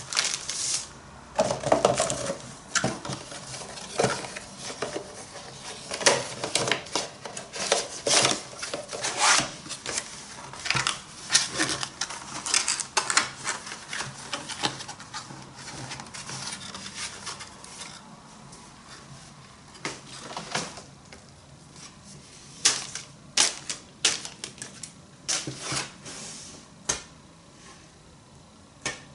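Irregular clicks, taps and short rustles of items and packaging being handled while unboxing. They come thick for most of the stretch and thin out to scattered clicks near the end.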